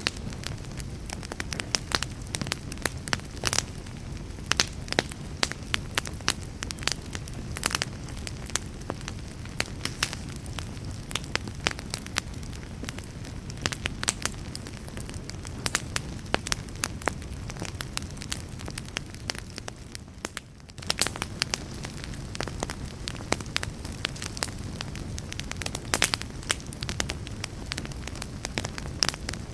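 Wood fire burning, with a steady low rush of flames under frequent sharp crackles and pops. The sound briefly drops away about two-thirds of the way through, then picks up again.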